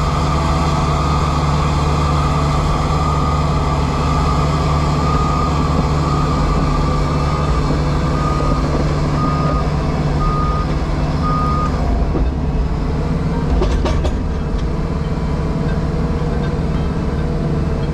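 JCB Pothole Pro's diesel engine running steadily, heard from inside the cab. About halfway through, a reversing alarm beeps four times, about one beep a second, followed shortly by a few sharp knocks.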